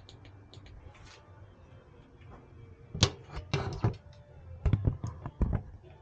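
A quick run of hard knocks and clatters, starting about halfway through, over a faint low steady hum.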